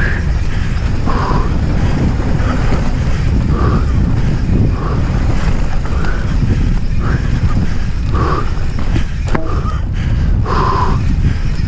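Wind buffeting the microphone and tyre rumble as a mountain bike rides a dirt trail at speed, with the rider's hard breathing in short puffs about once a second.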